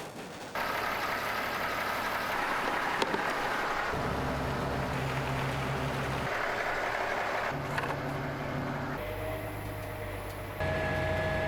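Tractor diesel engine running steadily under work, in several short spliced segments, each with a slightly different engine pitch and level, changing abruptly from one to the next.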